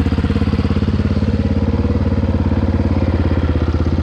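Single-cylinder four-stroke dirt bike engine idling steadily with an even thumping beat.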